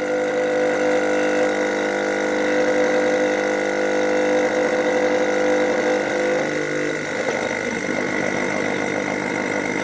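12-volt air-ride compressor running steadily under load as the tank nears its top pressure of about 180 PSI. About two-thirds of the way through, its steady hum stops and a rougher noise carries on.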